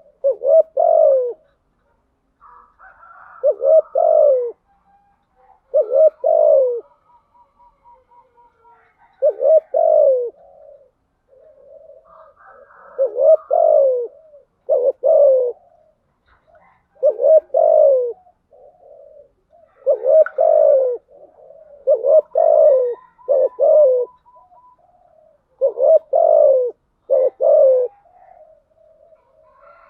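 Spotted doves cooing, a decoy call recording used to lure wild doves: short, loud coo phrases repeat about every two seconds. Fainter chirps and a quick trill sound between the phrases.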